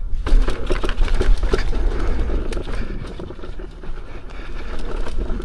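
Electric unicycle riding off-road over a rough trail: a steady low rumble with a jumble of irregular knocks and rattles throughout.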